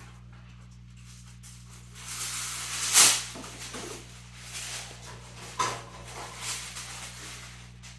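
Parchment paper pulled off its roll: a crinkling rustle that builds and ends in a sharp tear about three seconds in, then a few shorter rustles as the sheet is handled.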